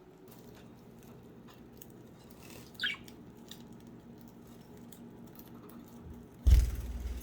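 Pet budgies moving about at their cage: light pecking and scratching clicks, one short falling budgie chirp about three seconds in, and a loud thump with a low rumble near the end.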